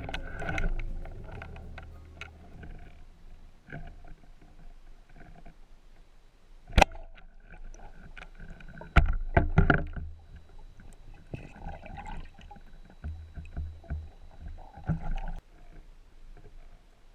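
Irregular knocks and clicks over a low rumble, the loudest knocks about seven and nine to ten seconds in.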